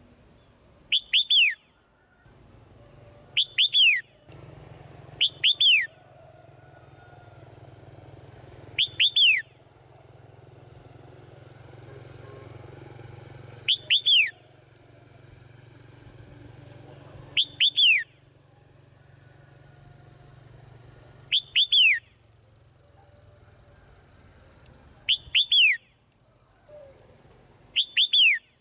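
Swallow calls: nine short bursts, each of two or three quick downward-sweeping chirps, coming every few seconds over a faint low hum.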